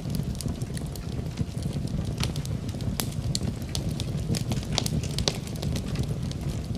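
Wood fire burning in a fireplace, crackling and popping at irregular intervals over a steady low rumble.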